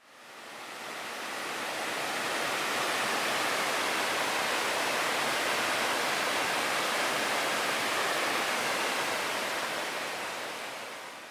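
Mountain stream rushing as a steady, even noise, fading in over the first couple of seconds and fading out at the end.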